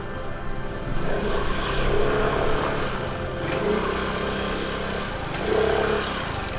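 Motor scooter engine running while riding over a rough, stony dirt track, its pitch rising and falling as the throttle is worked, with louder swells about a second in and again near the end.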